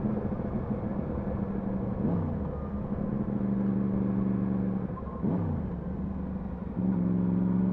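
Yamaha MT-10 SP's inline-four engine running under way, its note dropping and picking back up twice as it changes gear, then louder near the end as the throttle opens.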